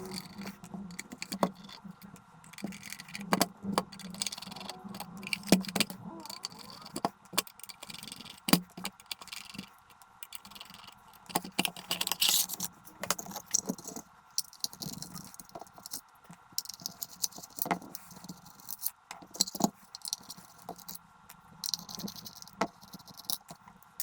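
A 12 V to 220 V car power inverter being opened up: scattered clicks, knocks, scrapes and metallic clinks as its metal housing and screws are handled and taken apart.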